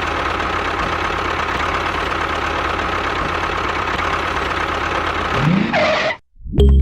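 A miniature DIY tractor's motor running steadily. Near the end it gives a short rising sound, then cuts off suddenly, and music starts.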